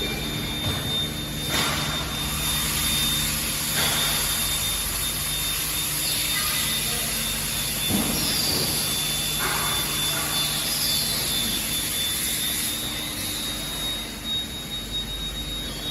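Factory machinery noise: a steady mechanical hum with a thin high whine, broken by a few sharp metallic knocks.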